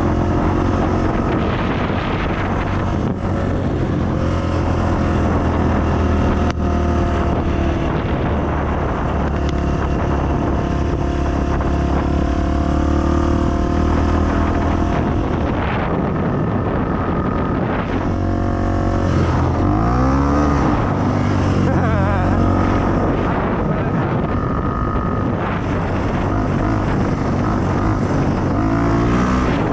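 Dirt bike engine running steadily, then revving up and back down about twenty seconds in.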